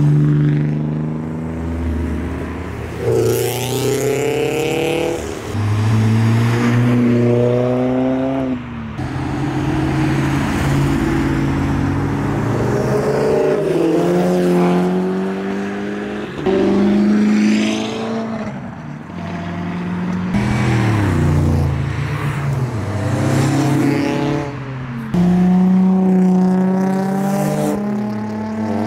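Modified tuner cars pulling away one after another, their engines revving up with rising pitch and dropping back at each gear change.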